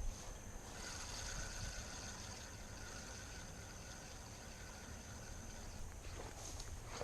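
Quiet outdoor ambience: a steady high-pitched insect drone over a low wind rumble, with a brief knock right at the start.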